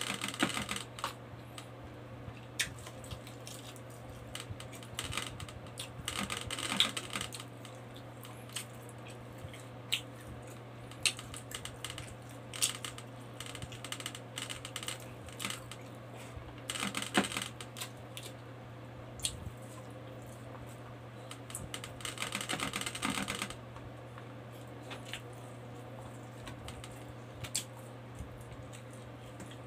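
Close-up eating sounds: wet clicks, lip smacks and chewing as rice and pork are eaten by hand, with a few denser stretches of chewing, over a steady low hum.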